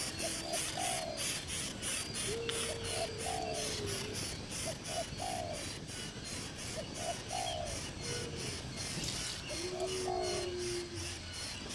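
Doves cooing: a three-note phrase, two short notes and a longer falling one, repeated about every two seconds, with lower drawn-out coos from a second bird in between. A fast, even high-pitched pulsing runs beneath.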